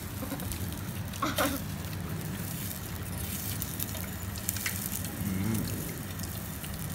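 Sausages sizzling steadily in a small nonstick frying pan, with a brief clatter of forks against the pan about a second in.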